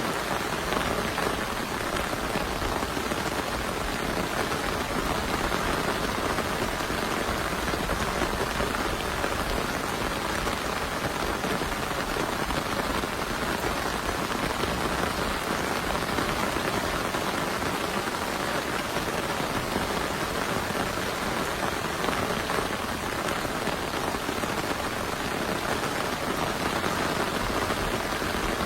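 Heavy rain falling steadily, an even, unbroken patter.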